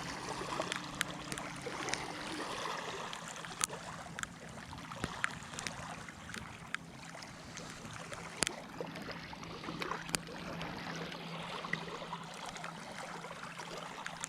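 Steady rain falling, with scattered sharp drop taps close by and a faint low hum underneath.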